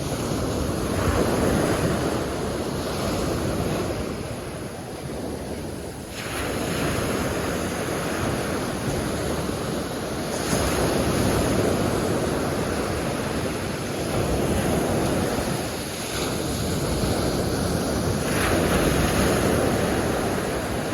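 Ocean surf rolling in and washing on the shore, swelling and easing every few seconds, with wind buffeting the microphone.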